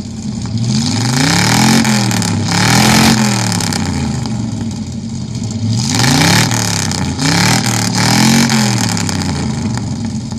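Car engine being revved in short blips, its pitch rising and falling back four times in two pairs, about a second apart within each pair.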